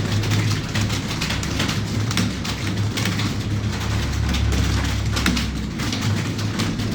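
Several people typing on computer keyboards at once, a dense, irregular clatter of keystrokes, over a steady low hum.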